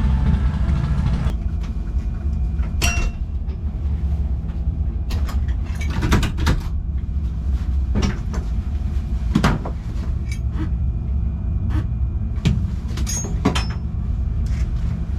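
Low, steady vehicle engine rumble with scattered clicks and knocks. A louder, noisier sound cuts off about a second in.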